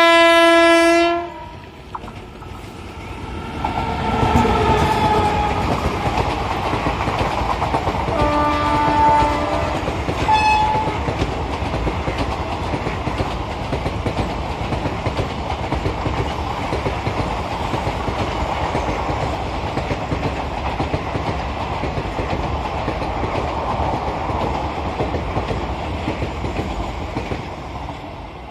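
WAP5 electric locomotive's horn blasting loudly at the start, then sounding again in a few shorter notes over the next ten seconds as it passes. After it, the passenger coaches run by with a steady clatter of wheels on rail joints that fades near the end.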